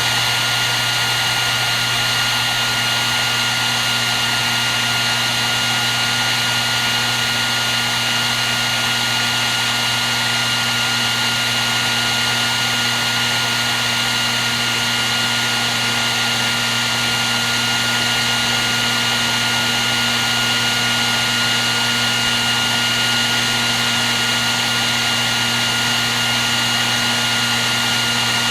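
Hair dryer running steadily: a constant rush of blown air with a high, even motor whine and a low hum.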